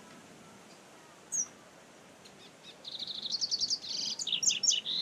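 Double-collared seedeater (coleiro) singing: a single short high note, then from about three seconds in a fast run of quick, high notes that goes on to the end.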